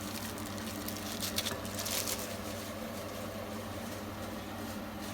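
Gas stove burner running under a cast iron pan: a steady hiss over a low hum, with a couple of brief clicks about one and a half and two seconds in.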